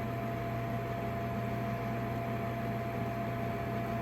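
Steady hum of a Trane gas furnace running through its ignition sequence on a call for heat, with a thin high tone over it. The gas valve has not yet opened, so the burner is not lit.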